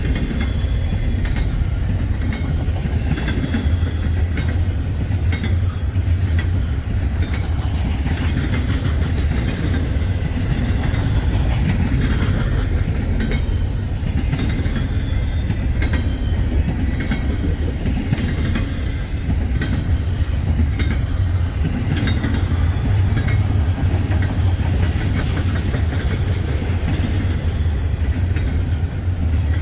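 Freight train cars rolling past at close range: a steady heavy rumble with the clicking of wheels over rail joints.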